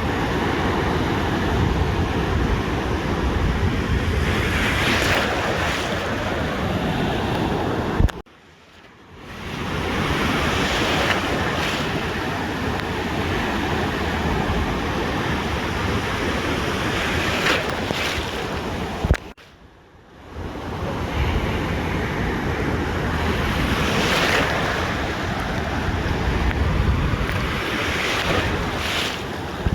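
Ocean surf breaking and washing on a beach, with wind rumbling on the microphone; a brighter hiss of a breaking wave comes every six seconds or so. The sound cuts out abruptly about 8 seconds in and again about 19 seconds in, each time fading back up.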